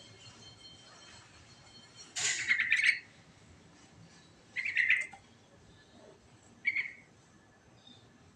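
Sooty-headed bulbul singing in three short bursts: the first, about two seconds in, is the loudest and longest at nearly a second; the other two are shorter.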